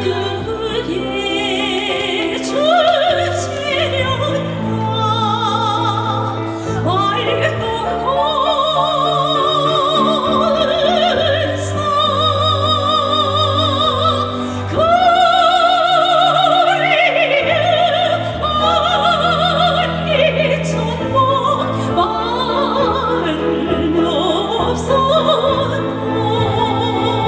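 A woman singing in a trained, operatic style, her held notes wavering with strong vibrato, over instrumental accompaniment with steady sustained bass notes.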